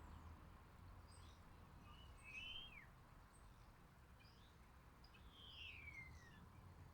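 Faint calls of small garden birds: scattered high chirps, with two clearer calls that slide down in pitch, one about two and a half seconds in and a longer one near the end.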